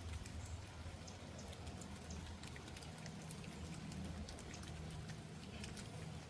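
Light rain, scattered drops ticking and pattering, over a steady low hum.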